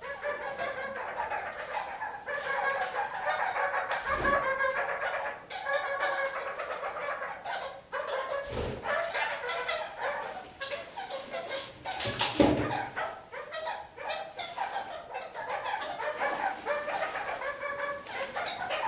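Red-crowned parakeets (kakariki) chattering continuously, with a few dull thumps, the loudest about twelve seconds in.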